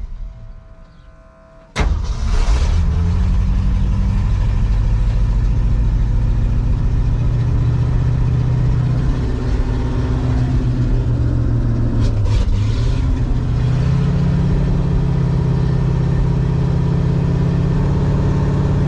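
A 1966 Ford truck's V8 dies away, then fires again suddenly about two seconds in and keeps running fast on the throttle, its speed stepping up around fourteen seconds in. It is a cold start in deep sub-zero cold after weeks of sitting, and this engine will not idle until it is well warmed up.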